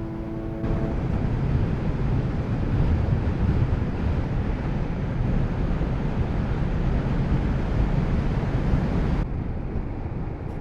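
Wind rushing over the microphone while riding a Kawasaki Z650RS motorcycle, with its parallel-twin engine running low underneath. The wind noise drops off sharply near the end as the bike slows.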